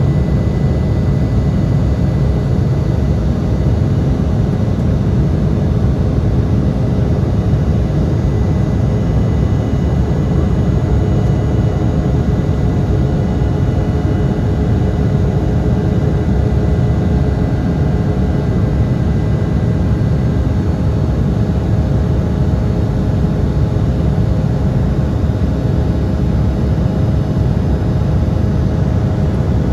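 Embraer E175's twin GE CF34 turbofan engines running steadily, a loud even rumble with faint steady whining tones over it.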